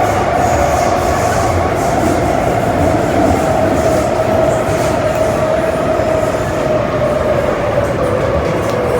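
Metro-Cammell M-Train electric multiple unit heard from inside the car while running, a steady rumble of wheels and running gear under a strong motor whine that slowly falls in pitch.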